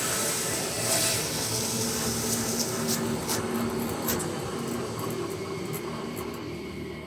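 Woodland Mills HM126 bandsaw mill running, a steady machine noise with a few sharp clicks in the middle, fading slowly toward the end.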